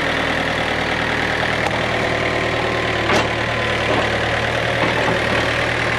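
John Deere 110 backhoe loader's diesel engine running steadily as the machine creeps forward, with a short metallic clank about three seconds in.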